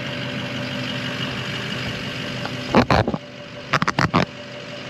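A truck engine idling steadily, with a sharp knock about three seconds in and a quick run of four or five knocks about a second later.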